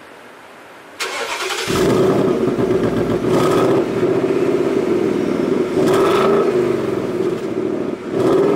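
Ford Mustang GT's 5.0-litre V8 starting up about a second in and catching with a loud exhaust note, then idling with three brief revs.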